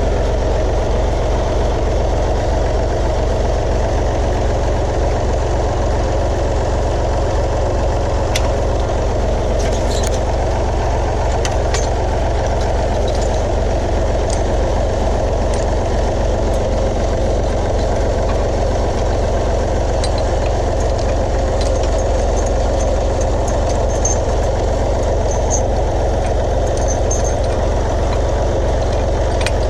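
Tractor engine running steadily, with scattered light clicks and rattles over it.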